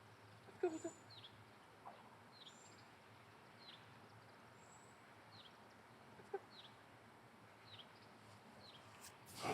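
Quiet outdoor ambience with a bird repeating a short, high, falling call about once a second. A brief louder rustle sounds near the end.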